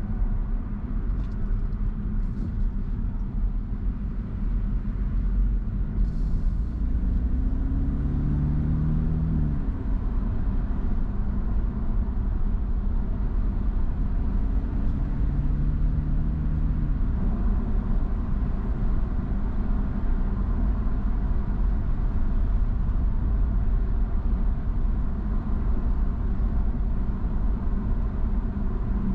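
Car driving, with a steady low road and engine rumble; twice a faint pitched engine note rises as the car picks up speed.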